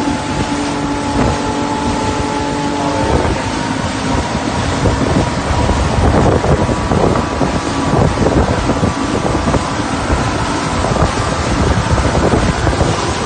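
Motorboat engine running under way, its note rising about three seconds in as the boat speeds up, then water rushing past the hull and wind buffeting the microphone.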